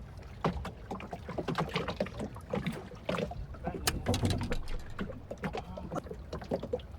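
Irregular light knocks and clicks on a small fishing boat as people move about and handle things aboard, over a low steady background.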